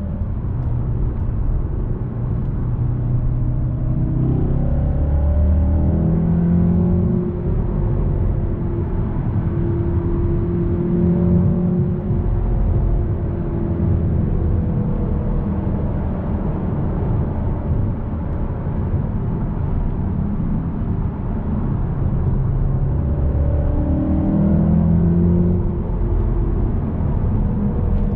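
Mk7 Volkswagen Golf R's turbocharged 2.0-litre four-cylinder engine driving hard through a manual gearbox in race mode, with the sound actuator's synthetic note layered in. The engine pitch climbs and drops several times as the car accelerates and changes gear, over steady road rumble.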